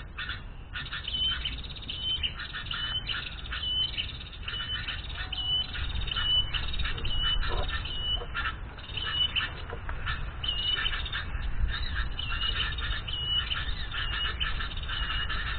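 Small birds calling: a short high note repeated about twice a second, over a busy chattering of quicker notes.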